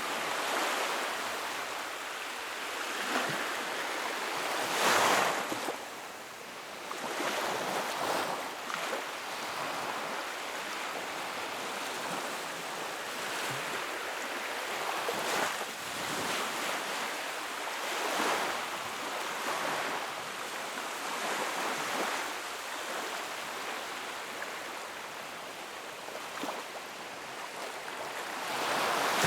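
Wood fire burning in a fireplace: a steady rushing hiss of flame that swells and fades every few seconds, loudest about five seconds in, with a few faint crackles.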